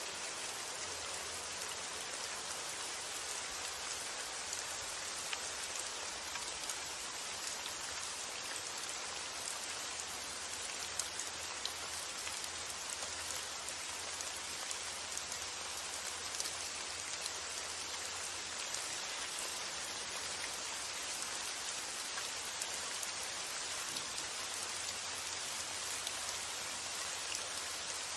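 Steady rain falling, an even hiss dotted with the small ticks of individual drops.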